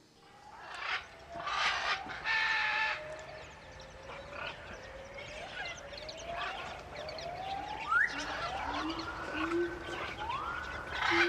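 Common loons calling: a series of wails, each sliding upward in pitch and then holding, overlapping one another through the second half. Two shorter, harsher calls come about one and a half and two and a half seconds in.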